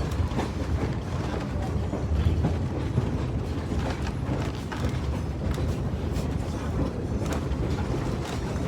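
Passenger train car rolling along the track, heard from aboard: a steady low rumble of wheels on rails, with scattered clicks and creaks from the car.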